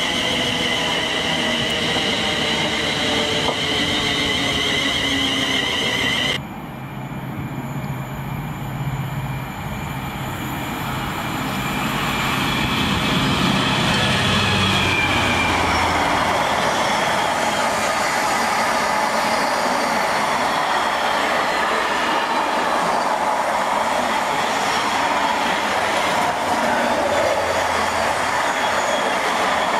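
A Class 350 Desiro electric multiple unit passing with a wavering high whine, cut off abruptly about six seconds in. Then a diesel freight locomotive goes by with a deep engine note, followed by the steady rumble and clatter of loaded container wagons rolling past.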